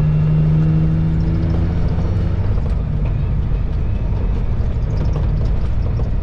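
Semi-truck's diesel engine running as the truck pulls away, heard from inside the cab: a steady low drone with a held hum for the first couple of seconds, then an even rumble.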